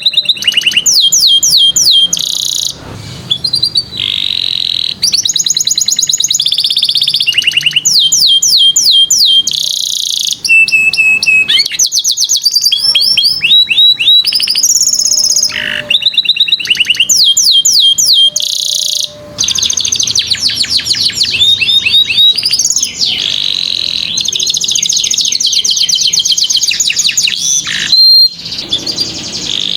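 Domestic canary singing a long, continuous song of rapid trills and rolls: fast, evenly repeated high notes in phrases that change every second or two, with sweeping whistles between them.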